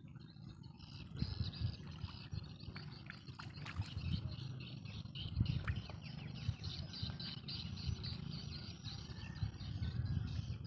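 A bird chirping in a rapid run of short, high notes, over an uneven low rumble.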